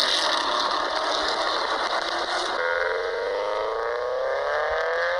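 Recorded car engine sounds played through a smartphone's small speaker: one engine clip, then about two and a half seconds in a new clip of an engine revving with its pitch slowly rising.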